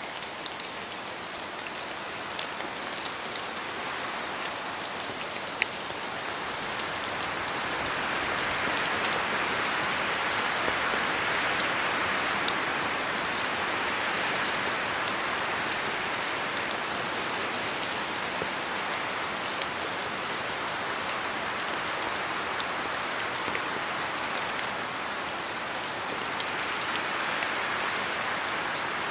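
Steady rain falling, a dense hiss dotted with many small drop ticks. It grows louder about a quarter of the way in and swells briefly again near the end.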